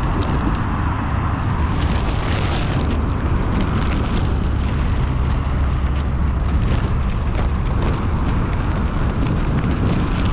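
Strong wind buffeting the microphone: a loud, steady rumble, with scattered short clicks and taps over it.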